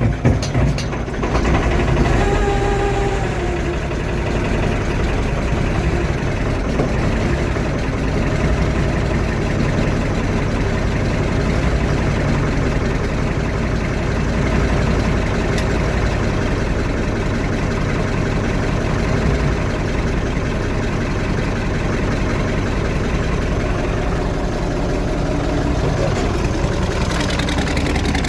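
Farmall 1066 turbocharged diesel on a cold start: uneven pulses in the first second or so, then the engine runs steadily at a low idle.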